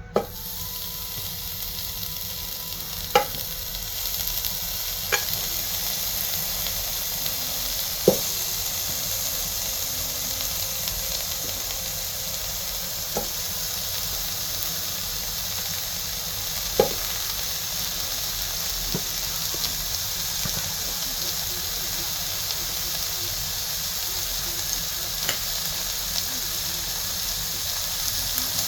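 Bacon sizzling steadily in a hot pan as its fat renders, with a few sharp pops of grease scattered through it.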